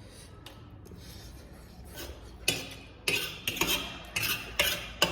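Crisp crunching of panipuri shells being cracked and eaten, quiet at first, then about seven sharp crunches close together in the second half.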